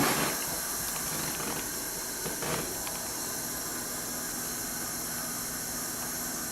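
Tap water running steadily into a bucket that is filling with hot soapy water. There are two brief louder sounds, one at the start and one about two and a half seconds in.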